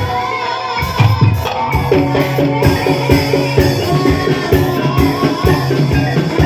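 Gamelan music accompanying an ebeg horse-trance dance: drums beating a steady rhythm under short repeating metallophone notes and a held low tone.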